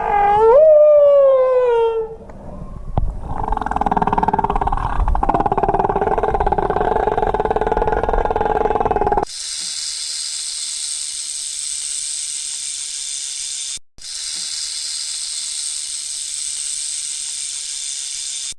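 A series of animal sounds: a short call that falls in pitch, then a longer, rougher call of several seconds, then a long, even hiss that breaks off once partway through.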